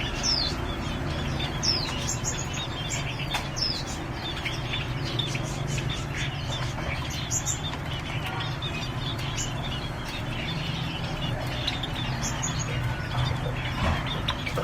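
Caged songbirds chirping steadily, with several sharp falling whistles in the first few seconds, over a steady low hum.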